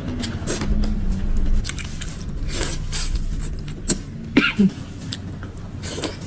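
Someone eating a bowl of noodle soup: a few short, sharp slurping and clinking sounds over a low steady rumble.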